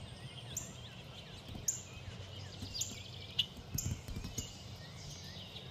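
Several small songbirds chirping and calling, with a sharp, high, downward-sliding chip repeated about once a second, over a faint steady low background rumble.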